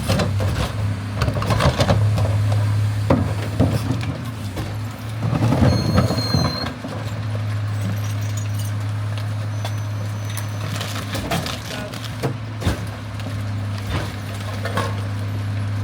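Garbage truck's diesel engine idling steadily, with scattered clanks and knocks and a brief high squeal about six seconds in.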